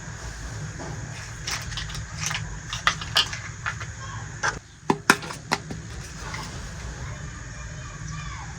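Small hard toy pieces being handled and set down: a run of light clicks and taps, the sharpest a few seconds in, over a steady low hum.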